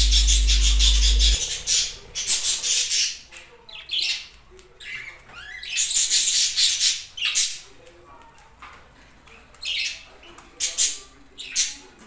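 A steady low hum cuts off about a second and a half in. After it, budgerigars chatter and squawk in short, irregular bursts.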